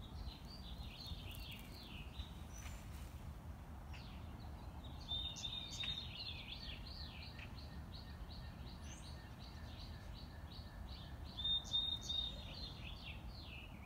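Birds chirping: a quick run of short, falling chirps, with a brighter held whistled note about five seconds in and again near the end, over a low steady outdoor rumble.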